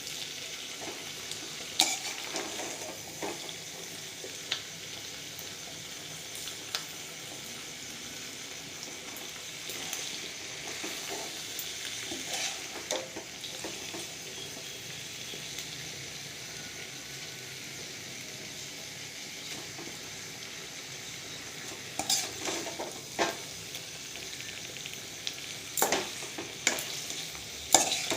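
Chili chicken frying in a pan with a steady sizzle, while a metal spatula stirs it and knocks against the pan now and then, more often near the end.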